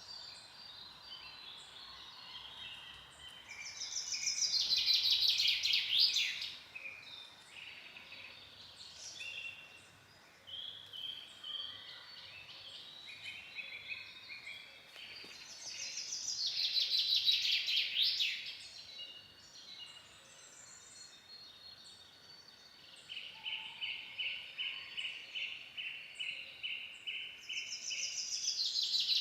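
Forest songbirds singing. One bird gives a loud, rapid song phrase that falls in pitch, three times about twelve seconds apart, and near the end another sings a steady run of quick repeated notes, with softer chirps from other birds in between.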